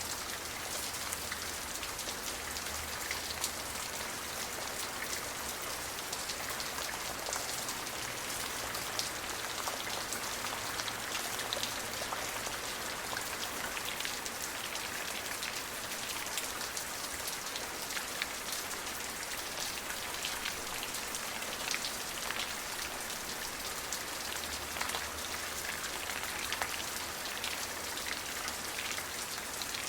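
Steady rain falling, a dense hiss of drops striking a surface with many small distinct drop ticks.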